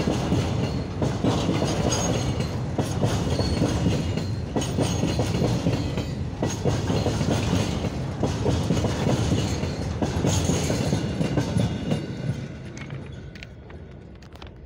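Goods wagons of a freight train rolling past close by, their wheels clicking rhythmically over the rail joints with occasional short high squeals. The sound fades away as the last wagon goes by, about twelve seconds in.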